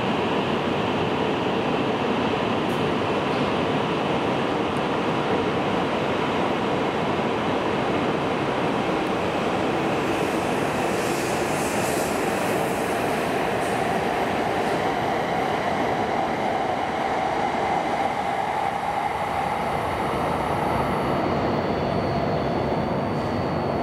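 E5 series Shinkansen train pulling out of the station, passing close by as a steady rush of wheel and air noise. Partway through, a faint whine rises slightly in pitch as the train gathers speed.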